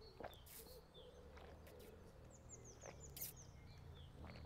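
Near silence with faint birdsong: a run of short, high, falling chirps repeated several times in a row, about two seconds in. A few faint clicks fall between them.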